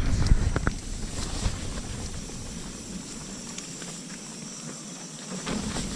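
Strong gusting wind rushing and buffeting against the microphone, with a few light clicks and rustles; the low rumble eases briefly near the end.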